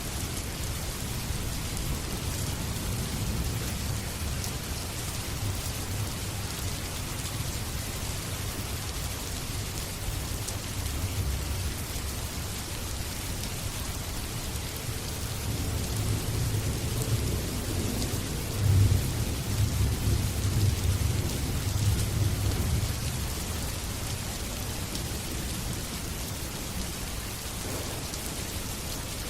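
Steady rain falling, with a low roll of thunder swelling in the middle and peaking a little past halfway before fading back under the rain.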